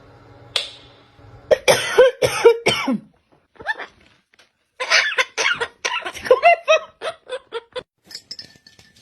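Parrot calling in short, harsh, rapid sounds in two bursts, the second starting about two seconds after the first ends.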